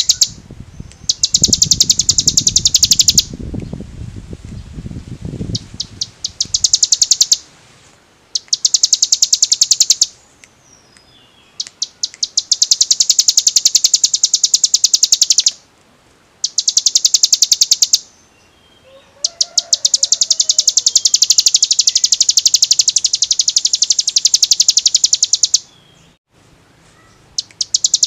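Hill prinia (ciblek gunung) singing its rapid drilling trill: bursts of very fast, evenly repeated high notes, each burst running one to six seconds with short pauses between. A low rumble sits under the first six seconds.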